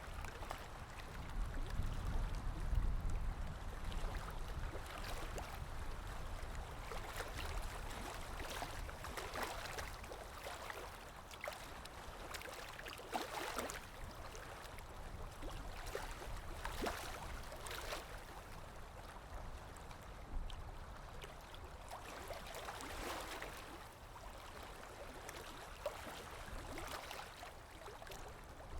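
Water lapping, with wind: a steady wash of water with soft swells every few seconds and a low wind rumble in the first few seconds.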